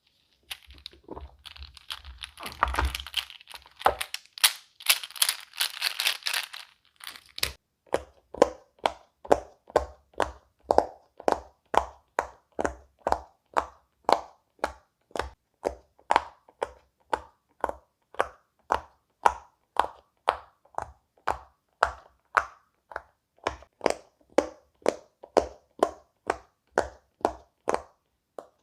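Silicone pop-it fidget toy pressed bubble by bubble: a steady run of short pops, about two a second. Before the pops begin there are several seconds of crinkling, crackling handling noise.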